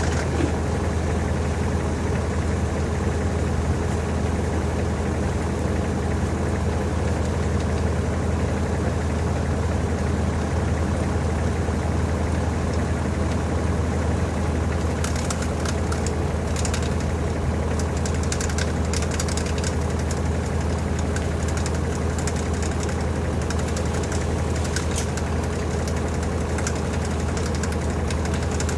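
LG TurboDrum top-loading washing machine spinning a full load of bedding: a steady low motor hum with a light high rattle that picks up about halfway through.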